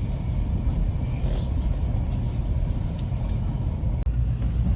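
Steady low rumble of a KTX high-speed train running, heard from inside a passenger car. The sound drops out for an instant about four seconds in.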